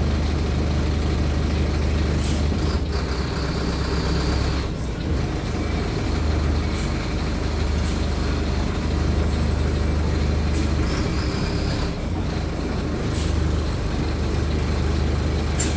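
Mercedes-Benz OF-1519 city bus diesel engine running steadily with a deep hum. Short sharp hisses of air from the pneumatic system cut in about six times.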